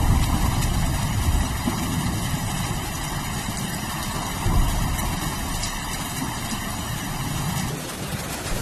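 Steady rain hiss with thunder rumbling low and continuously underneath; the rain's texture changes abruptly near the end.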